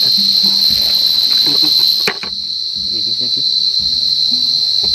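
Crickets calling in a loud, steady, high trill. About two seconds in there is a sharp rustle, and a fainter, higher-pitched part of the chorus stops.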